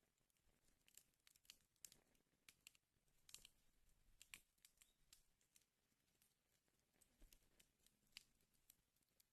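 Wood fire burning in a fireplace, faint, with irregular sharp crackles and pops of the burning logs over a soft hiss.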